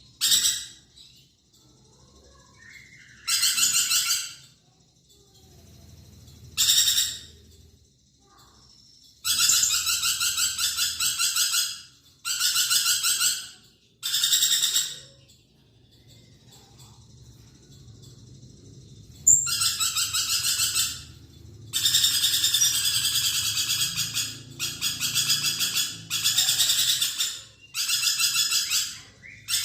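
Lorikeet (nuri perkici) calling in bursts of harsh, rapid, screechy chatter, about a dozen of them, each half a second to two and a half seconds long with short pauses between. The bursts run longer and closer together in the second half.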